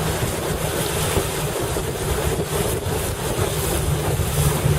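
Strong wind buffeting the microphone over rushing, splashing water, with a steady low hum underneath.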